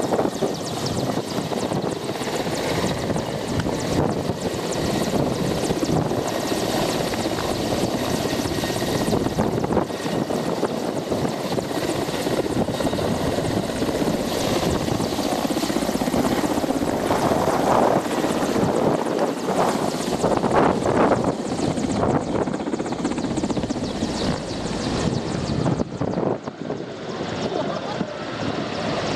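Helicopter running close by: a loud, steady wash of rotor and engine noise, with people's voices mixed in.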